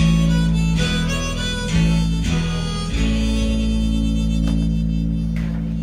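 Harmonica playing held chords that change about every second, over a steady low bass note, in a live band's instrumental intro.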